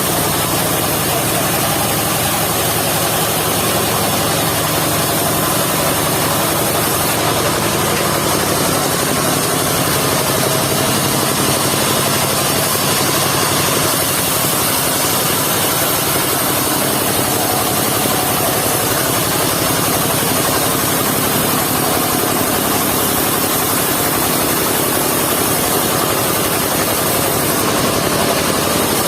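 Engine of a mobile circular-saw sawmill running steadily.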